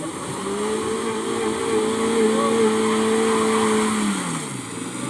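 Vehicle engine running under load at steady high revs, its pitch held level for a few seconds, then dropping near the end as it eases off.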